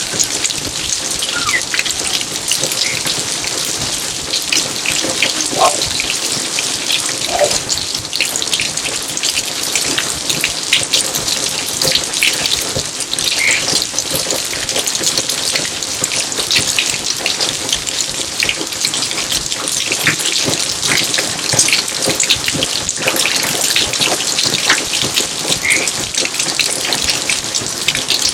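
Steady rain falling in a garden: a dense patter of drops. A few short pitched plinks stand out here and there.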